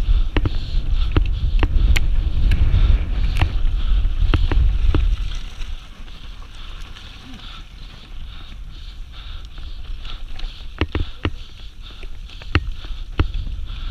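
Downhill mountain bike run: wind rumbling on the microphone with sharp knocks and rattles from the bike over rough ground. The rumble is heavy for the first five seconds, then drops away, leaving scattered clicks and knocks.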